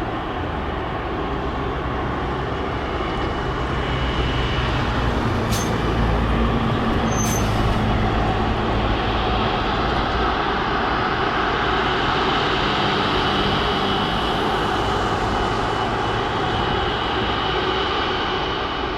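Boeing 777 jet engines running at taxi power: a steady rumble with a thin high whine, swelling a little toward the middle and easing near the end.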